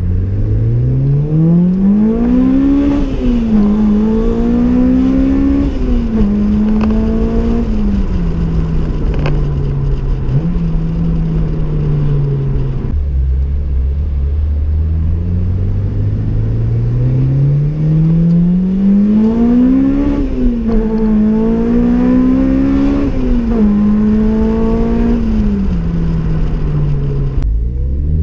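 Honda Civic Type R EP3's 2.0-litre i-VTEC four-cylinder, fitted with a Tegiwa cat-back exhaust and induction kit and a DC Sports manifold, heard from inside the cabin through two hard acceleration pulls. Each time the revs climb, drop sharply at two quick upshifts and climb again, then fall away off the throttle. The second pull starts about halfway through.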